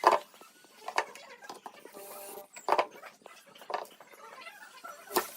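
A series of sharp knocks and taps from woodworking: about five, irregularly spaced a second or so apart, with faint scraping and rustling between them.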